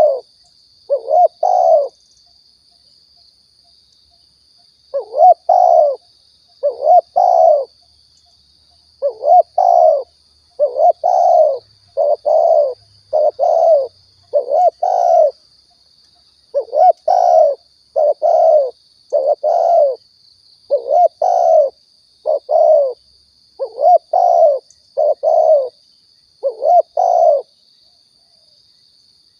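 Spotted dove (tekukur) cooing in a bird-lure recording: repeated phrases of two or three low coo notes with a pause between phrases, and a longer break early on. A faint steady high whine runs underneath.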